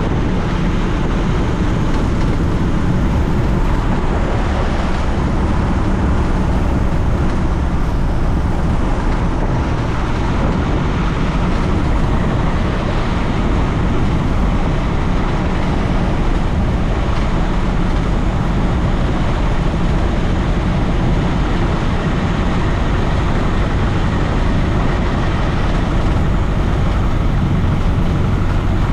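Piper J-3 Cub's engine and propeller running steadily, heard from inside the cockpit.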